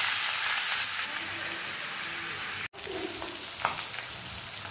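Pork sizzling in hot oil in an aluminium kadai as it is turned with a spatula. The sound breaks off for an instant about two and a half seconds in, then returns as a quieter sizzle.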